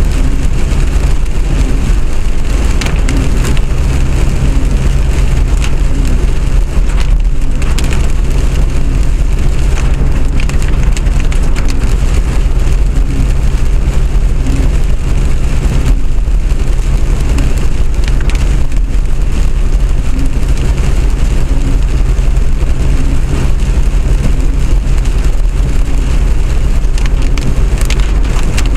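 A vehicle moving in the rain, heard from inside: a loud, steady low rumble of the running vehicle with rain and wet-road noise over it, and a low repeating pulse beneath.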